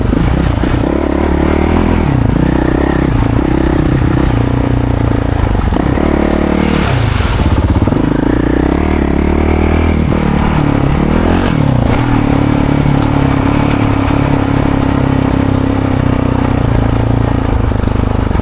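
Dirt bike engine running with the revs rising and falling as it rolls along the trail, engine braking. About seven seconds in there is a brief noisy scrape.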